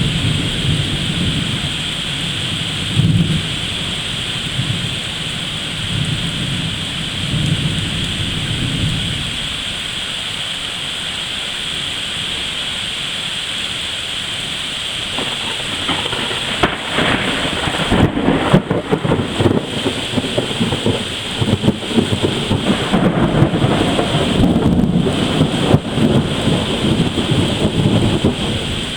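Heavy thunderstorm: steady rain hiss with thunder rumbling low for the first third or so. From about halfway the storm grows louder and more uneven, with many sharp spikes over the rain.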